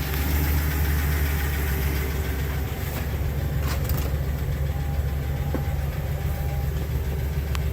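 Ford E-450's 6.8-litre V10 gasoline engine idling steadily, heard from inside the cab, with a few faint light clicks.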